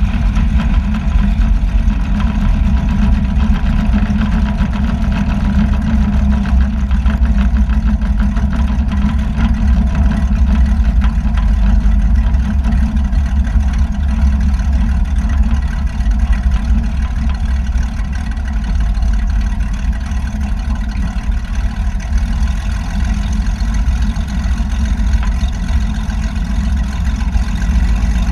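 Light aircraft's piston engine and propeller running steadily, a loud low drone that eases off slightly around the middle.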